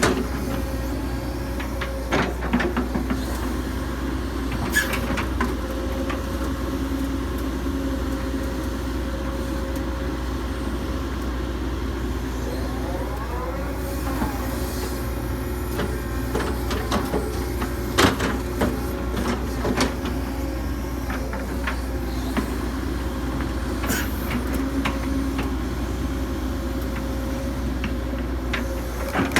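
Hitachi 135US excavator's diesel engine running steadily under digging work, with a few sharp clanks of the bucket and a brief rising whine partway through.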